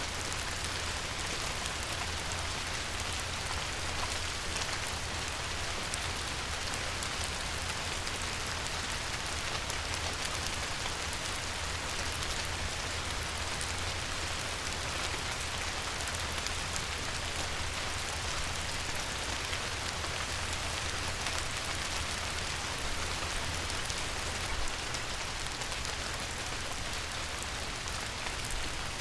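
Light rain falling steadily on a river, a dense even hiss of many small drops pattering on the water, with a low steady rumble underneath.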